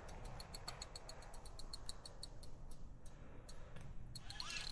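Fishing reel being wound during a fish fight, giving a faint, rapid, even ticking of about six clicks a second.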